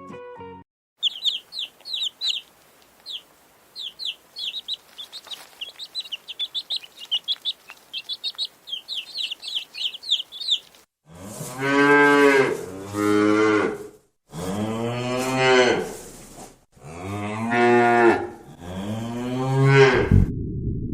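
Quick high-pitched bird chirps, many in rapid runs, for the first half; then cattle mooing, several long, deep moos one after another.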